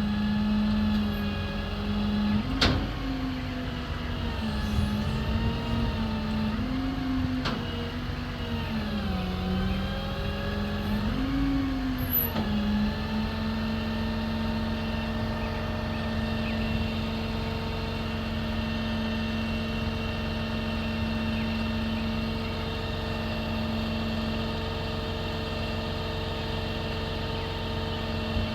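Ram 5500 bucket truck running, a steady pitched hum that wavers up and down in pitch for the first dozen seconds, then settles and holds steady. Two sharp clicks come a couple of seconds in and again about seven seconds in.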